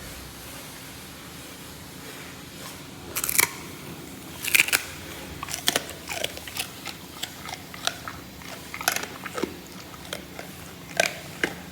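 Jindo dog eating from a bowl: irregular sharp crunches and clicks of chewing, starting about three seconds in.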